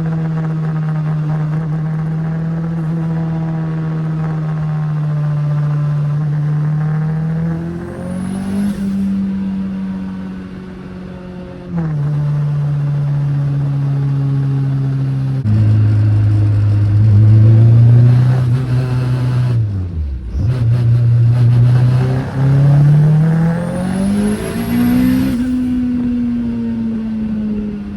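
Turbocharged Honda K20 four-cylinder in a 1991 Toyota MR2 running on the road: it holds a steady engine note, then twice climbs in pitch under acceleration, each time with a high whistle rising over it. In between it drops to a lower, steadier note, with a brief dip about two-thirds of the way through.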